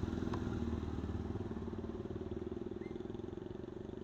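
Small motor-scooter engine running with a steady, fast pulse, slowly fading.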